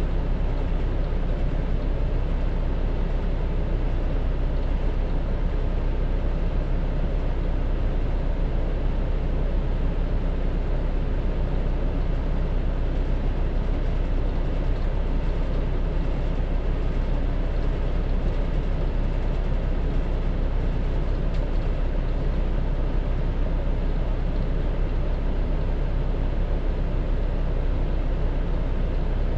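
Hino BDG-HR7JPBE city bus with its J07E diesel engine, running steadily with a low, even drone and no gear changes or pauses.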